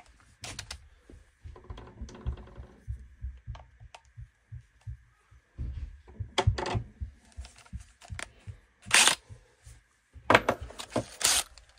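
Hand work on small trimmer parts with tools: irregular clicks, knocks and light taps of metal and plastic, with a few louder rasping scrapes in the second half.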